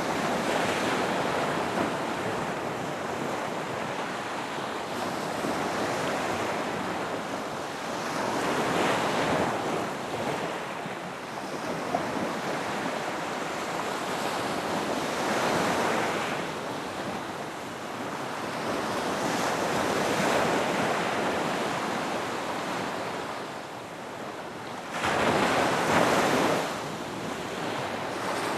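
Ocean surf breaking on a beach: a continuous rushing wash that swells and eases every few seconds, with one sudden louder break near the end.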